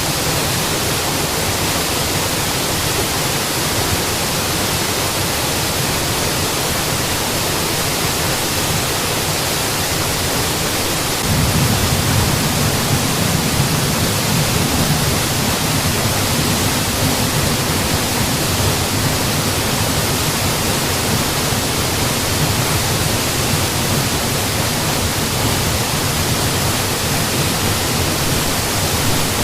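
Mountain waterfall: a steady, even rush of falling water. About 11 seconds in its low rumble grows louder and stays so.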